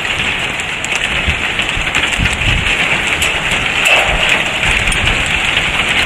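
Heavy rain falling steadily in a severe thunderstorm, with scattered sharp ticks and irregular gusts of wind buffeting the microphone.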